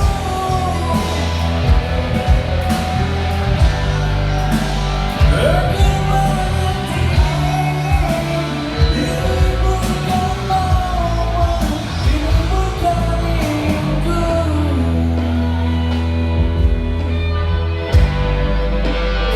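Live rock band playing a song with singing over guitar, bass and drums, amplified through a PA system.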